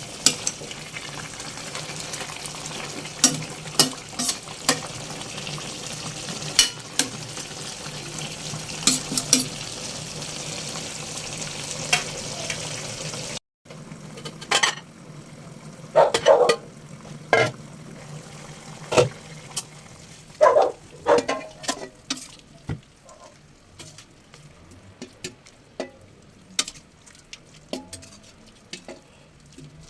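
A pot of chicken tinola cooking with a steady sizzling, bubbling noise, while a metal ladle or spoon clinks against the pot every second or so. About halfway through the sound cuts off abruptly and resumes quieter, with only scattered clinks and knocks.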